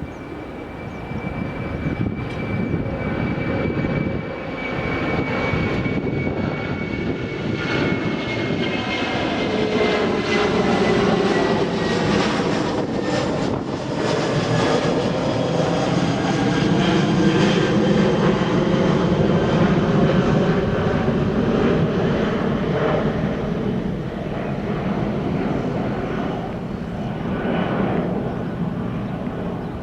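Jet airliner flying past close by: a high engine whine slides down in pitch over the first several seconds under a heavy, rushing engine noise that swells to its loudest around the middle and eases off slightly near the end.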